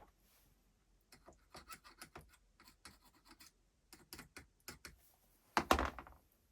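Small hard parts being handled and worked on a bench: a run of light clicks and scratches, then a louder clatter about five and a half seconds in.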